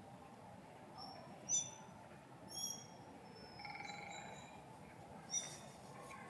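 Siberian stonechat calling: three short, sharp, high calls a second or more apart, with softer high notes between them, over a faint steady hiss.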